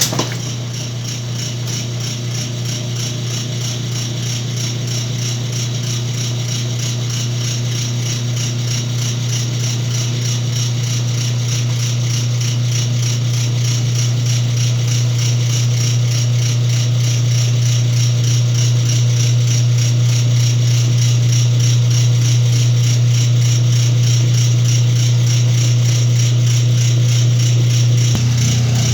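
Whirlpool washing machine running with a steady low motor hum and a continuous rattle, starting suddenly and growing slowly louder.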